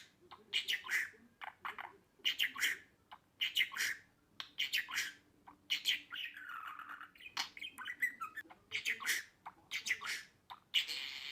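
Budgerigar chirping and chattering in quick bursts of short calls, with a longer warble about six to seven seconds in.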